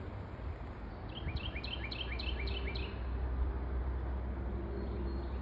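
A songbird sings a quick series of about six sharp, repeated notes, roughly three a second, over a steady low rumble of background noise.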